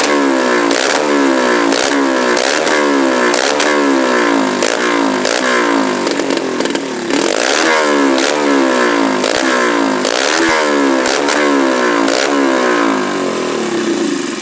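Underbone motorcycle engine revved over and over through a racing exhaust of thin galvanized sheet, the throttle blipped about twice a second with each rev dropping back. The revving eases toward a steadier idle near the end.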